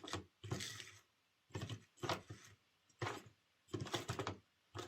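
Tender-mounted Ringfield motor of a Mainline Dean Goods OO gauge model locomotive stuttering into life. It rattles and grinds in short spells about every half second to second, with gaps between, showing only a little life.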